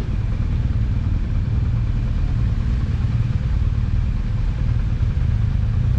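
BMW R1200GS Adventure's boxer-twin engine running steadily, a constant low rumble.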